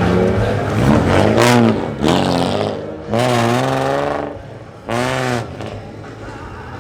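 Car engine revved hard in four short bursts, the pitch wavering up and down within each burst. It drops back to a quieter steady sound near the end.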